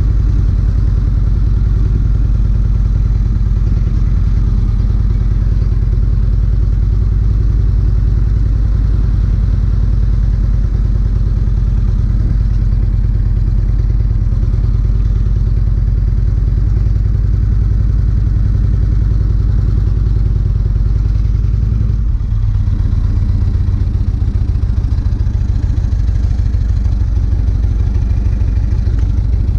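Motorcycle engine running steadily, its note changing about three-quarters of the way through.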